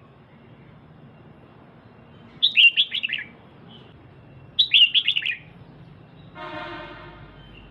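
Female red-whiskered bulbul giving two short bursts of rapid chirps, each falling in pitch, about two seconds apart. A quieter, brief buzzy tone follows near the end.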